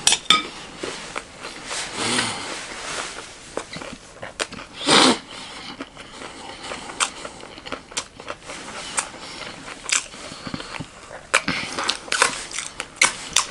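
Close-miked chewing and crunching of chatpatey, a crunchy Nepali puffed-rice snack, heard as a stream of crisp crackles. A short, louder burst of noise comes about five seconds in.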